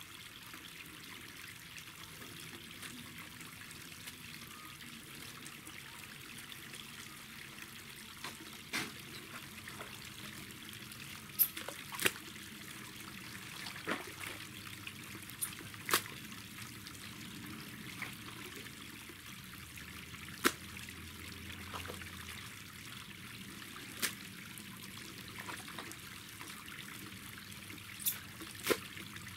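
Water trickling steadily where it leaks through a small dam, with about ten sharp clicks scattered through.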